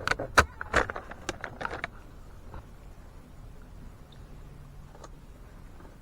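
A quick run of sharp clicks and knocks, like hard objects being handled or set down, over the first two seconds, the loudest about half a second in; after that only a faint steady background and an odd light tick.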